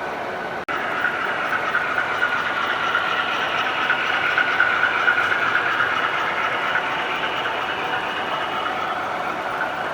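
Model train running on the layout track: a steady whir of motor and wheels on rail, swelling a little in the middle. It cuts out for an instant under a second in.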